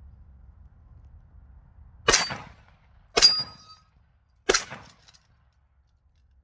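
Three AK rifle shots about a second apart, each sharp crack followed by a short ringing tail.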